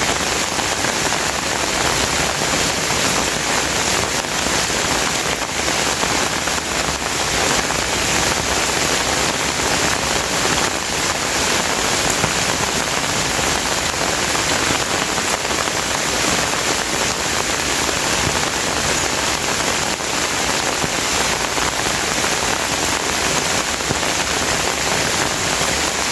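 Steady rain falling and pattering on surfaces, an even continuous hiss.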